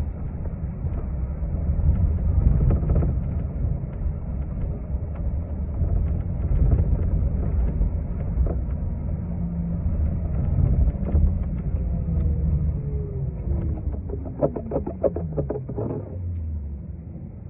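City bus running on the road, heard from inside: a steady low engine and road rumble. Near the end a whine falls in pitch as the bus slows, with a brief rapid fluttering pulse over it.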